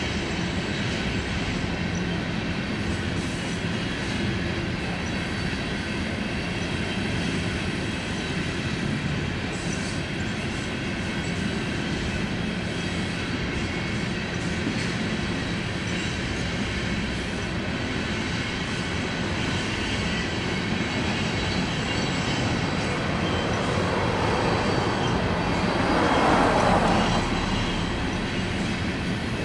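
Loaded coal train's hopper cars rolling past, a steady rumble of steel wheels on rail with faint high wheel squeal. The noise swells louder for a couple of seconds near the end.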